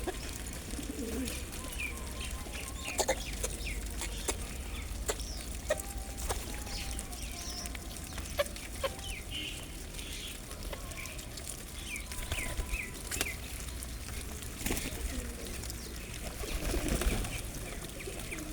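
A flock of small birds at a feeding spot: short, scattered chirps and squeaks, with sharp clicks and wing flaps here and there over a steady low rumble.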